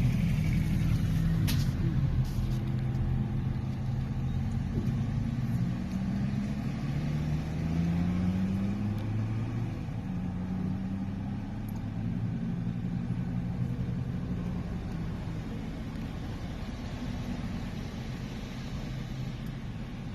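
Fire engine's diesel engine accelerating away up through its gears, the pitch climbing then dropping back at each shift, growing steadily fainter as it moves off.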